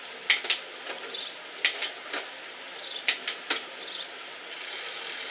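Bicycle chain and rear gears clicking sharply and irregularly as the chain is worked onto the outermost rear sprocket, with faint bird chirps behind.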